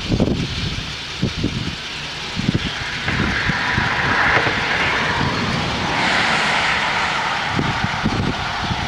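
Wind buffeting the microphone in irregular gusts, with a steady broad hiss that swells about three seconds in and holds.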